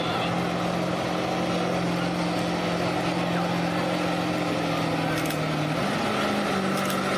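Street diesel pulling truck's diesel engine running hard under load. It holds a steady pitch, then climbs to a higher pitch about six seconds in.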